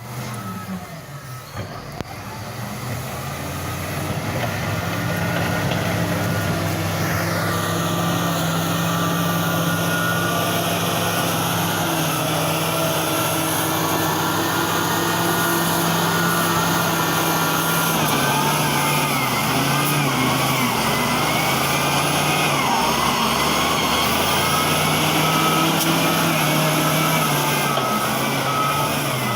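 XCMG ZL50GN wheel loader's diesel engine running under load, its drone building over the first few seconds and then holding steady, its pitch shifting up and down from about halfway through. A regular beeping comes in near the end.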